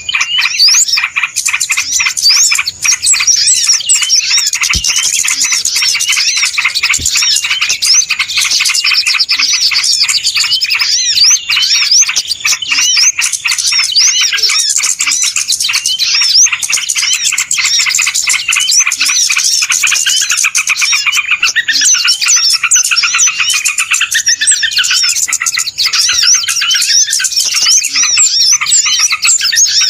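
A dense, unbroken chorus of many small birds chirping and calling at once, with quick rising and falling notes overlapping throughout: a noisy bird-lure (pikat) recording meant to draw wild birds in.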